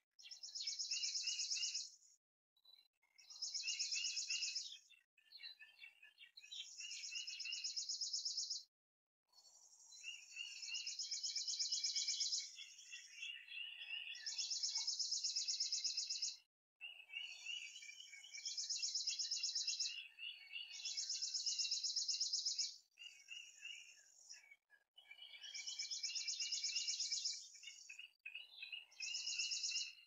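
Songbirds singing in repeated phrases of one to two seconds, each a fast high trill over lower chirping notes, with short pauses between phrases.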